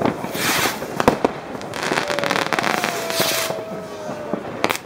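New Year's Eve fireworks going off: long hissing bursts, sharp firecracker bangs about a second in and again near the end, and a faint, slightly falling whistle in the middle.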